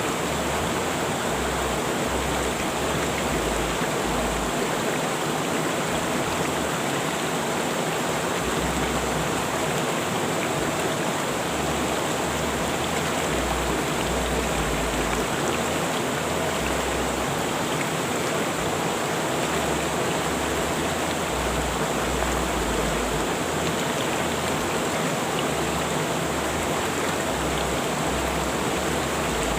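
River water rushing steadily, a constant even roar of flowing water.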